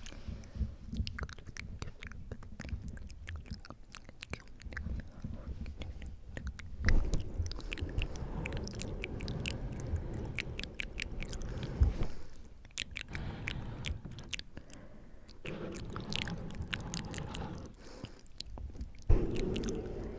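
Close-miked wet mouth sounds: a rapid scatter of tongue and lip clicks and smacks, joined in stretches by breath blowing across the microphone. There are louder breathy puffs about 7 s in, about 12 s in and near the end.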